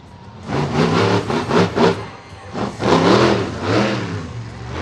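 Monster truck engine revving hard in three throttle bursts, its pitch rising and falling with each blip, starting about half a second in.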